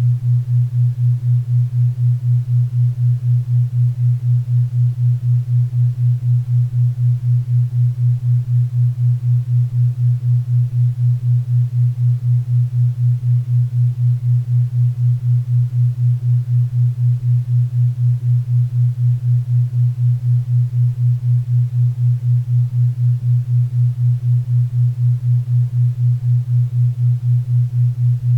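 4 Hz theta-wave entrainment tone: a steady low hum pulsing evenly about four times a second, over faint pink and brown noise.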